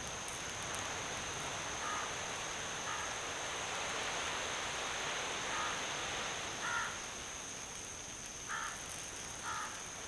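Bird calls: a short call repeated about seven times at irregular intervals, over a steady hiss with a thin, constant high whine.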